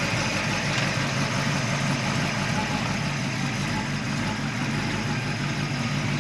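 347 stroker small-block Ford V8 idling steadily as it warms up after a cold start, breathing through shorty headers.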